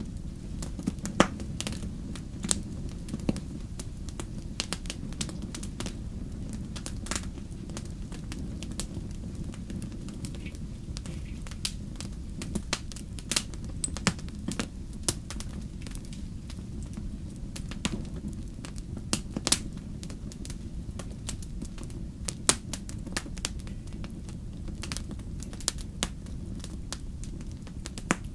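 Campfire burning with a steady low rumble of flames and irregular sharp crackles and pops of wood, a few louder snaps standing out.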